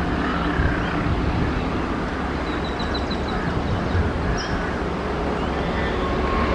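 Steady low rumble of a WAP-7 electric locomotive hauling a parcel express train as it approaches. Birds chirp over it, with a quick run of short chirps about halfway through.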